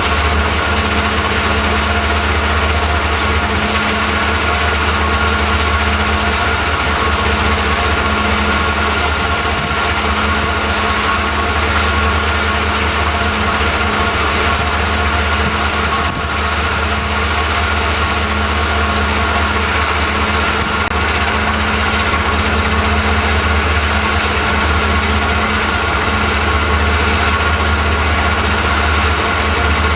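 DD51 diesel-hydraulic locomotive's engines running steadily: a constant low drone with a steady hum that neither rises nor falls.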